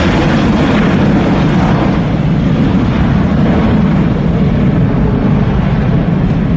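Airplane engine running loud and steady, with a faint tone sliding slowly lower and the higher hiss thinning out over the second half.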